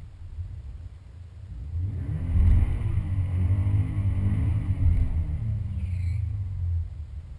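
A car engine revving hard, building over about a second to a loud peak, holding for about four seconds and then dropping away, heard from inside a car's cabin at a drag strip.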